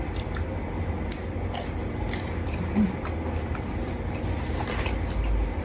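Eating sounds: scattered small clicks and crunches of biting and chewing seafood salad, over a steady low hum.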